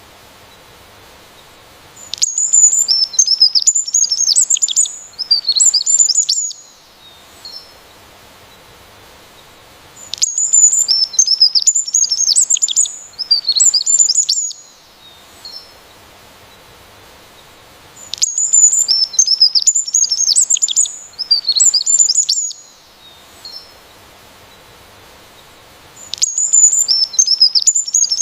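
A songbird singing in bouts of rapid, high twittering notes. Each bout lasts about four seconds and comes round again every eight seconds or so, with short pauses between.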